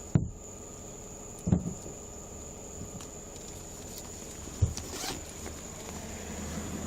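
Handling noise: three sharp knocks and a short rustle over a steady high-pitched whine.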